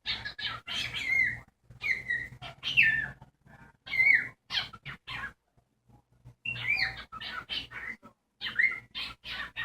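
Cockatiel calling excitedly in quick runs of short chirps and squawks, many sliding down in pitch, with a brief pause a little past the middle.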